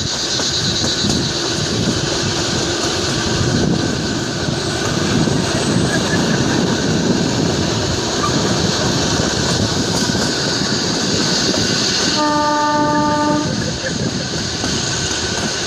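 Kalka–Shimla narrow-gauge train running, with a steady rumble of wheels on rails. About 12 seconds in it sounds its horn once, a single blast of a little over a second.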